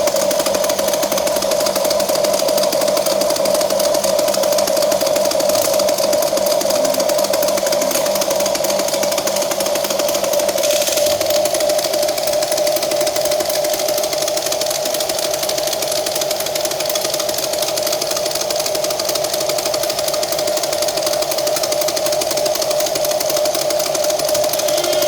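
Small electric motors of a Huina remote-control toy excavator running with a steady whine.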